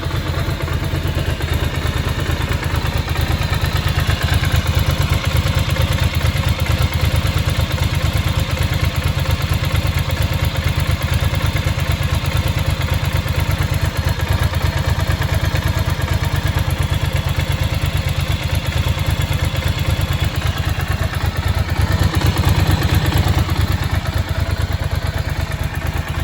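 Ducati motorcycle engine idling steadily with a fast, even pulsing beat, running after a cold first-thing-in-the-morning start. It grows briefly a little louder about 22 seconds in.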